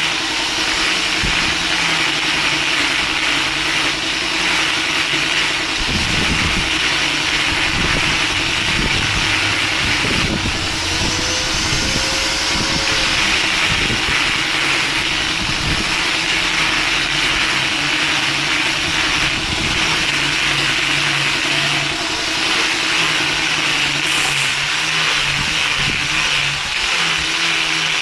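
Steady mechanical running noise with a constant low hum and a hiss. A series of low knocks comes through it in the middle.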